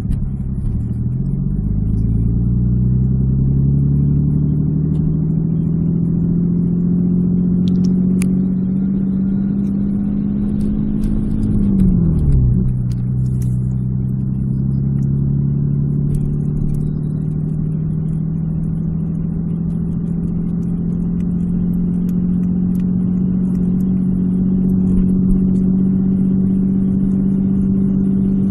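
Car engine running while driving, its pitch climbing slowly as the car speeds up, then dropping sharply about twelve seconds in as it changes gear, and climbing gently again.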